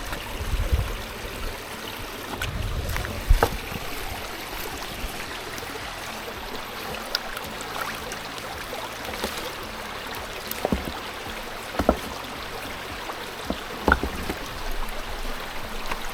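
Shallow stream water running steadily over rocks, with a few sharp knocks and clicks scattered through it.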